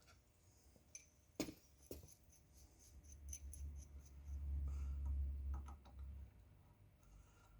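A few sharp metallic clicks and faint small ticks of hand tools and parts being handled while a threaded insert is run into an aluminum cylinder head, with a low rumble in the middle.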